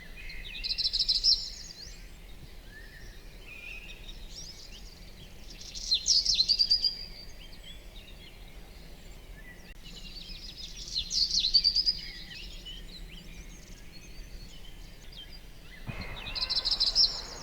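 A songbird singing the same short, high, chirpy phrase four times, about five seconds apart, over a faint steady outdoor background that grows into a louder hiss near the end.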